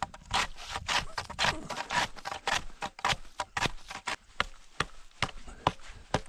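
Lake ice being chopped with a hand tool to open a water hole: a steady run of sharp strikes, about two a second.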